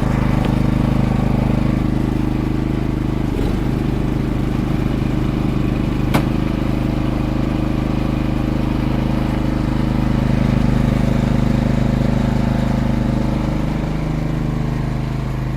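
Craftsman snow blower's single-cylinder four-stroke engine running steadily at part throttle, warming up after its first cold start of the season on last season's stabilized gas. One sharp click about six seconds in.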